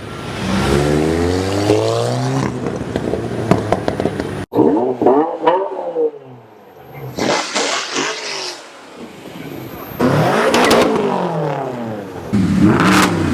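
High-performance car engines revved hard several times, the pitch climbing and falling back with each blip. The sound breaks off abruptly about four and a half seconds in and another run of revs follows.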